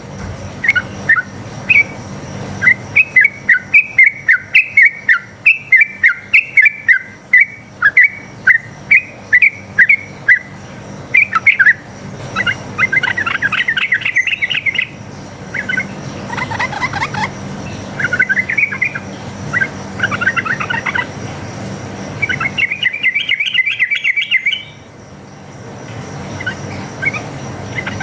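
Sooty-headed bulbul (trucuk) singing a long rapid series of short, bright chirping notes, with faster chattering runs in the middle and again near the end.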